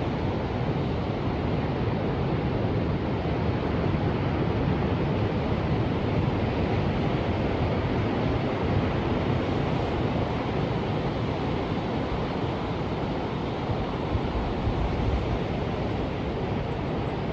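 Ocean surf washing steadily: a continuous rushing noise that swells a little in the middle and eases off near the end.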